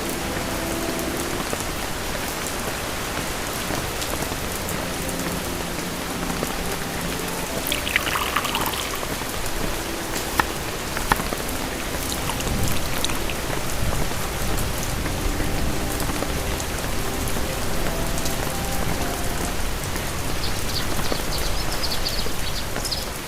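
Steady rain falling on a surface, an even hiss with scattered drips and a few sharp clicks. A low rumble comes in about halfway, and a faint high twittering starts near the end.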